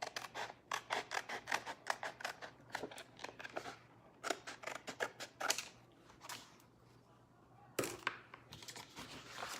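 Scissors snipping through a stencil transfer sheet: a fast run of short cuts, about four or five a second, for the first half, then a single sharper click near the end.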